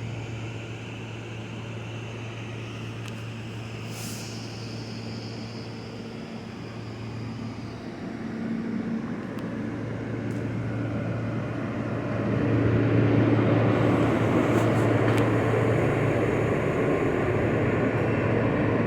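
New York City subway train running with a steady low hum. It grows louder from about eight seconds in and louder again around twelve seconds, with a brief high squeal about four seconds in and a few sharp clanks near fifteen seconds.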